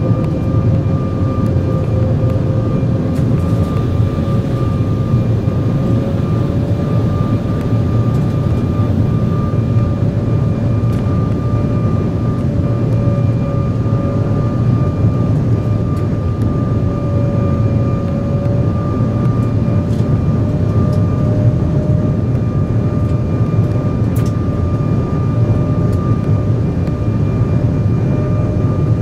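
Cabin noise in an Embraer 175 airliner in flight: a steady rush of airflow and engine rumble from its General Electric CF34-8E turbofans, with a thin steady whine over it and a lower tone that creeps slowly up in pitch.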